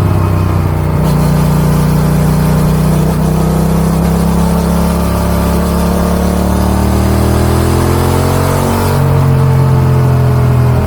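Yamaha XSR700's 689 cc CP2 parallel-twin engine running through an Akrapovic dual exhaust on the move. Its note climbs steadily under acceleration, then changes abruptly about nine seconds in, as at a gear change or throttle lift.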